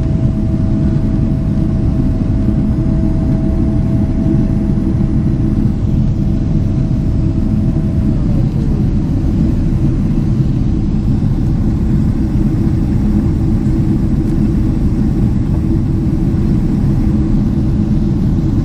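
Steady Boeing 777 engine and airflow noise, heard inside the passenger cabin during the climb after takeoff. A faint steady tone drops in pitch about eight seconds in.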